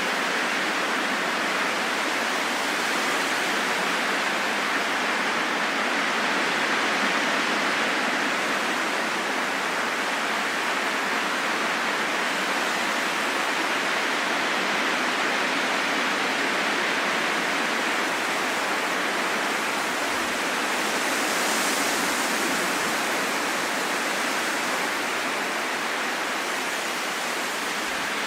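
Steady rain falling in a forest, an even hiss of drops on leaves without thunder or distinct drips.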